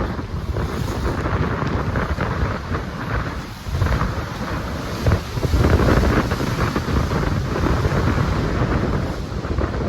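Wind buffeting the microphone: a loud, gusty rumble that swells and dips unevenly.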